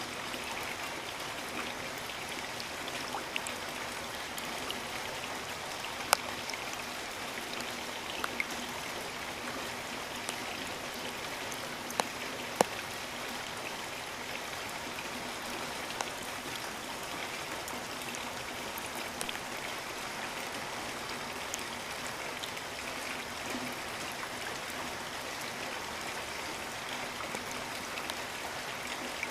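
Steady rain, an even hiss with scattered sharp taps of single drops striking close by; the loudest taps come about six seconds in and twice around twelve seconds.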